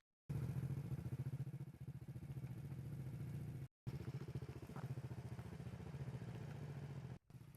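Small motorbike engine idling with a steady low putter, broken by two brief dropouts.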